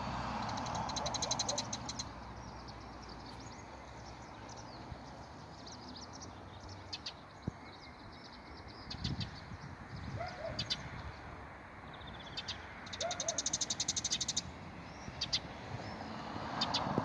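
Wild birds singing and calling: a rapid high trill near the start and a longer one about three-quarters of the way in, with short sharp chirps scattered between, over a faint low rumble.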